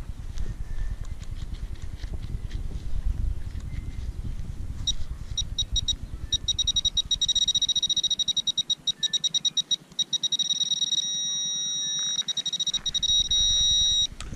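Teknetics Tek-Point pulse induction pinpointer alarm: a high two-tone beep that starts about five seconds in, pulses faster and faster as it nears a buried coin, then holds a continuous tone on target before cutting off near the end. Low rustling of handling and digging comes before it.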